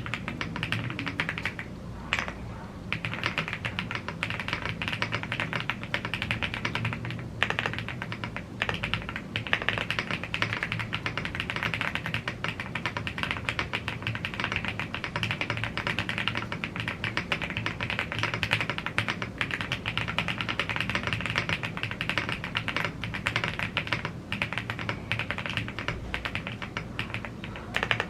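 Fast, continuous typing on a YUNZII AL75 gasket-mounted aluminium mechanical keyboard with Blue Grey tactile switches and double-shot PBT keycaps. The run of keystrokes breaks briefly about two seconds in and again at about seven and a half seconds.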